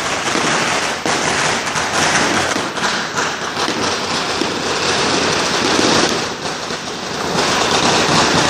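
Strings of firecrackers going off in a dense, continuous crackle of rapid bangs.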